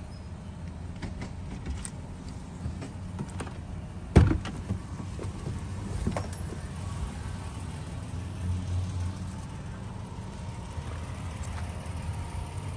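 Car engine running at a steady low rumble, heard from inside the cabin with the window open. A sharp thump comes about four seconds in, with a few faint clicks around it.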